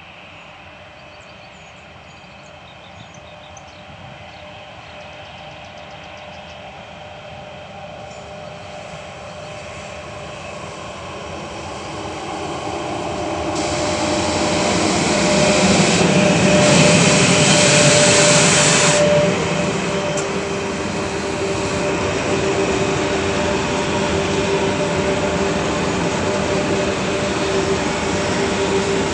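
Freight train headed by a four-section 4ES5K 'Ermak' AC electric locomotive, accelerating as it approaches and passes close by. The rumble of wheels grows and is loudest as the locomotive sections go by about halfway through, with a loud hiss and a steady whine that drops in pitch. It then settles into the steady roll of freight wagons.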